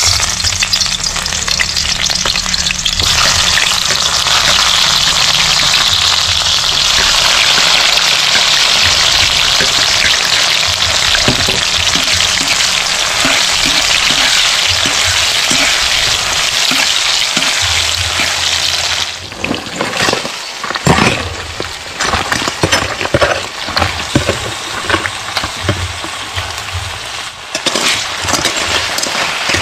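Garlic and chopped vegetables frying in hot oil in a metal wok, a loud steady sizzle as they are stirred with a metal spoon and tongs. About two-thirds of the way through the sizzle drops away and gives way to irregular clattering and scraping as blue crabs are turned over in the wok.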